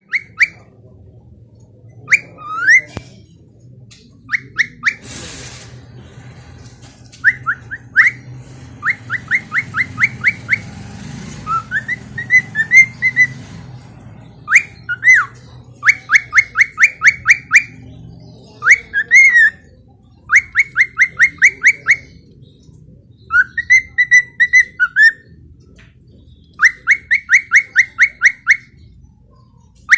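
Cockatiel whistling: runs of quick, rising whistled notes, about five a second, broken by short pauses, with a few longer wavering, warbling phrases in between.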